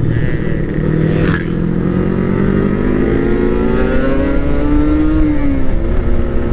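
Motorcycle engine under way, its revs climbing steadily as the bike accelerates, then dropping back about five seconds in. A short sharp sound comes just over a second in.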